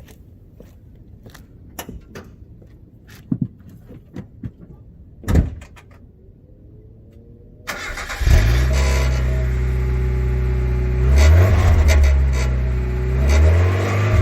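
A 1991 Mazda Miata's 1.6-litre four-cylinder engine starts about eight seconds in, settles to an idle through its old, rusted original exhaust, and is blipped up twice near the end. The exhaust is rattly, which the owner puts partly down to a loose heat shield or pre-cat. Before the start there are only faint clicks and a single thump.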